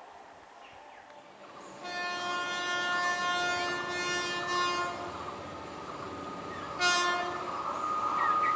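Train horn sounding one long blast of about three seconds, then a short, sharper blast a couple of seconds later, as the rumble of the approaching train grows near the end.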